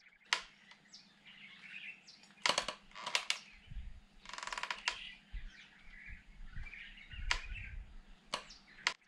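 Hand tools working a bolt on a Jeep: scattered sharp metallic clicks and knocks, and a half-second run of rapid clicks a little after four seconds in. Birds chirp faintly in the background.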